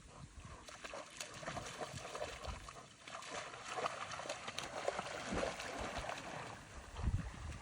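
Water splashing and trickling in irregular small bursts, with a few low thumps.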